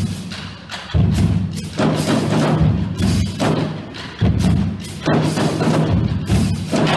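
Marching drumline playing a cadence: rapid, dense drum strokes over the deep, pitched notes of the bass drums.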